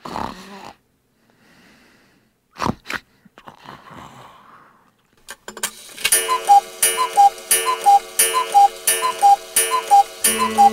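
Clock ticking in an even tick-tock, two alternating pitches at about two pairs a second, starting about six seconds in. Before it comes a brief snore at the very start, then a few sharp clicks. A low steady tone joins the ticking near the end.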